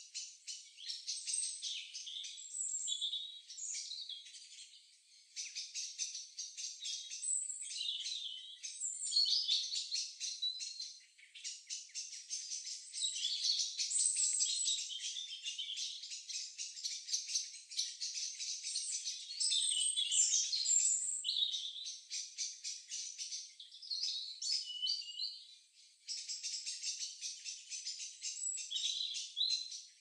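Several songbirds singing and chirping in overlapping high-pitched phrases, over a continuous fast, dry rattling.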